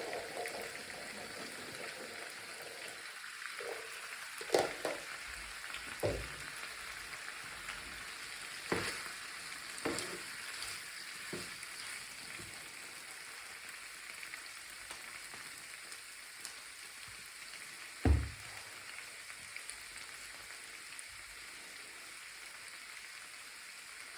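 Food sizzling in a frying pan with a steady hiss, broken by a few knocks of a utensil against the pan as it is stirred; the loudest knock comes about eighteen seconds in.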